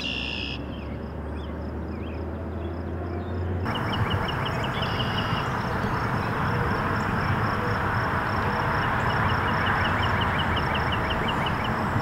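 A red-winged blackbird gives a short burst of song at the start. After that comes steady rushing outdoor background noise at a pond, with two runs of rapid high ticking, one early and one near the end.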